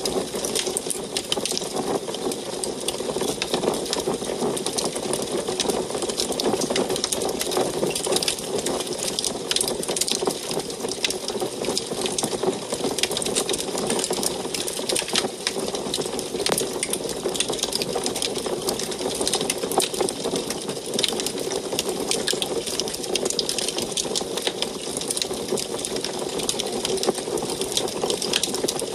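Wood fire burning in an antique wood stove: a steady rushing draw of flame with dense, fine crackles and pops from the burning logs.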